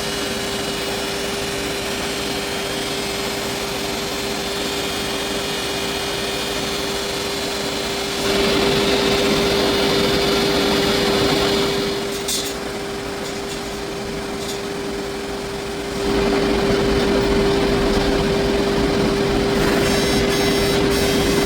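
Loud machine-shop noise: a steady mechanical hum under a rushing noise. It grows louder about eight seconds in, drops back about twelve seconds in, and rises again about sixteen seconds in.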